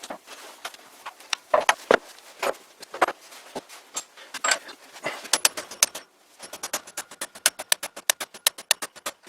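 Metallic clinks and knocks, then from about six and a half seconds a fast run of light hammer taps on steel, about five or six a second. This is a seized steel drill arbor being hammered out of its steel holder after a steel-on-steel bearing failure.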